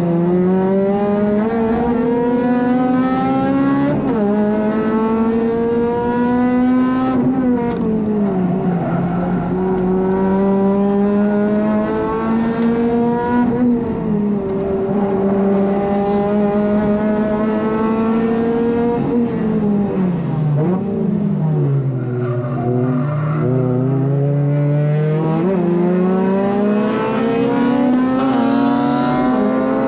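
Honda Civic FD2's four-cylinder engine heard from inside the car on track, revving up hard through the gears. Its pitch climbs, drops quickly at the shifts, and falls away under braking a few times before climbing again.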